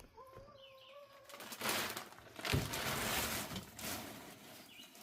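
A chicken's drawn-out, steady call lasting about a second, followed by about two seconds of loud rustling and scuffling.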